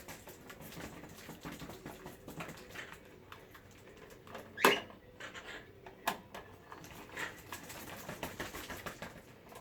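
Parrots pecking, scratching and rustling at a package with their beaks and feet: a run of small clicks and taps, with a sharper snap a little under halfway through and another about six seconds in.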